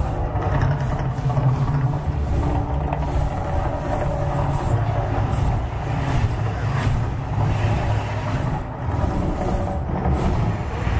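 Volcano show soundtrack over loudspeakers: a deep, steady rumble with scattered drum hits and tones layered on top.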